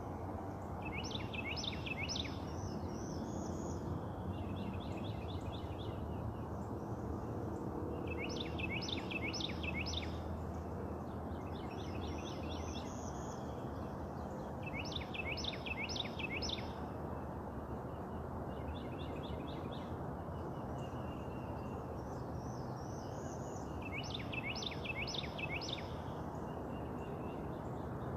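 Songbirds singing in the morning: one bird repeats a short burst of four or five quick, sweeping notes every few seconds, while fainter, shorter calls come in between, over a steady background hum.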